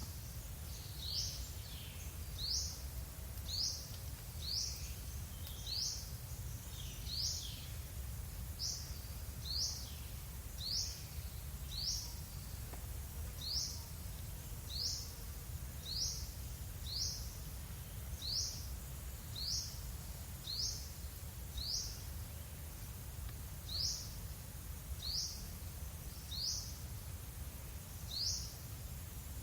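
A bird repeating one short, high chirp about once a second, over a steady low background rumble.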